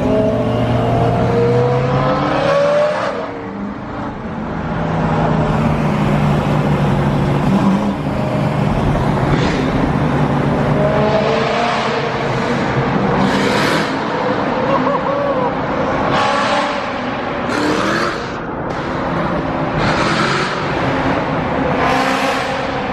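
Loud car engines running and revving with loud exhaust, the pitch rising and falling. The second half has several short, sharp rev bursts.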